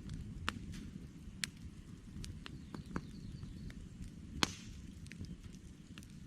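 Campfire logs crackling and popping at irregular intervals over a steady low rumble, with one louder pop about four seconds in.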